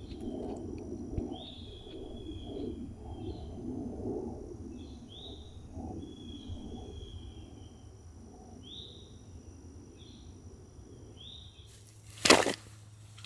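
Forest birds calling in repeated short high whistles over a low crackling rustle, with a brief loud rustle about a second before the end.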